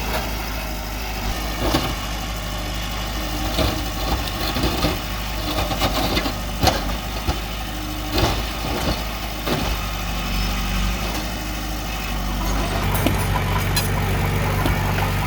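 Diesel engine of heavy earthmoving machinery running steadily, with scattered sharp metallic clanks. About thirteen seconds in, the engine note steadies and gets a little louder.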